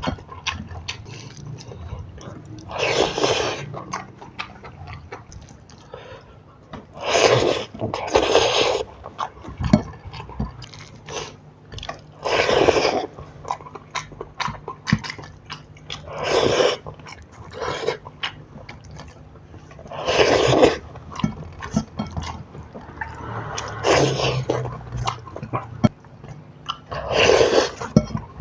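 Close-miked eating sounds: steady chewing with many small wet mouth clicks. Louder noisy bites or slurps come about every three to four seconds, eight in all.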